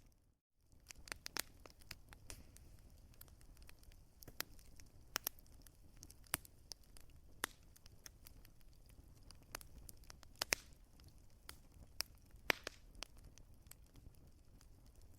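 Wood fire crackling, with irregular sharp pops from the burning logs over a low steady rumble of the flames. The sound cuts out briefly just after the start, then resumes.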